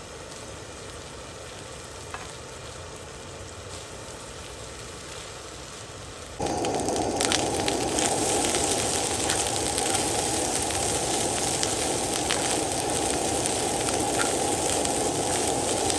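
Food sizzling in a hot pan: a low steady hiss, then a loud, even sizzle that starts suddenly about six seconds in and carries on.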